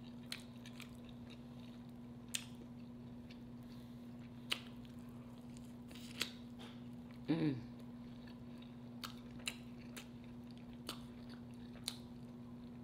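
Close-miked chewing and lip-smacking as a barbecue-sauced smoked chicken wing is eaten by hand, with sharp wet clicks every second or two. About seven seconds in, a short hummed "mm" falling in pitch is the loudest sound.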